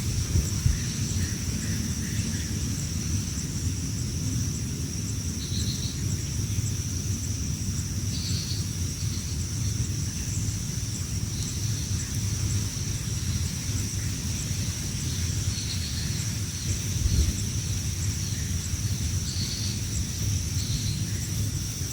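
Low rumble of wind on the microphone under a steady, high insect drone, with short bird chirps every few seconds.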